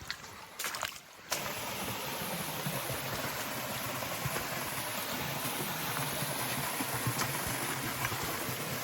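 Steady rush of flowing creek water, an even noise with no rhythm that starts abruptly about a second in.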